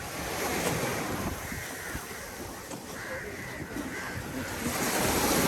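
Sea surf washing on a beach, with wind buffeting the microphone; a wave swells louder near the end.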